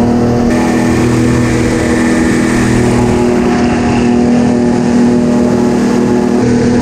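Airboat engine and air propeller running at a steady speed: a loud, even drone. Its tone shifts abruptly about half a second in and again near the end.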